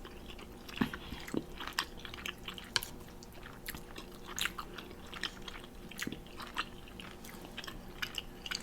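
Close-miked chewing of spicy instant noodles: irregular soft, wet mouth clicks and smacks.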